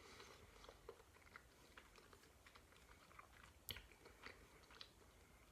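Faint close-mouthed chewing of a mouthful of sushi: soft, scattered wet mouth clicks, with one sharper click about two-thirds of the way through.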